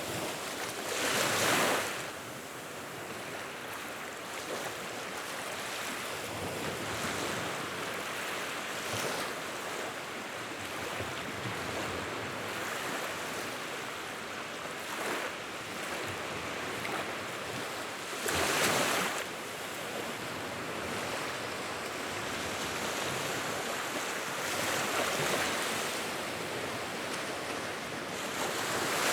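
Wood fire burning in a fireplace, a steady hiss with faint crackles and a few louder surges about a second long, near the start, about two-thirds through and at the end.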